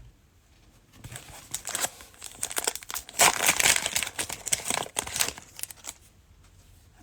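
Cellophane wrapper of a trading-card pack being torn open and crinkled by hand: a run of crackling from about a second in, loudest in the middle, dying away about a second before the end.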